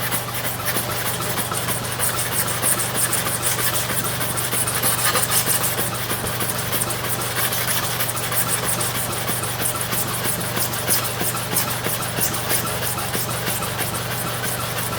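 Clipper blade rubbed rapidly to and fro on a sharpening stone, a steady run of scraping strokes, over a constant low hum.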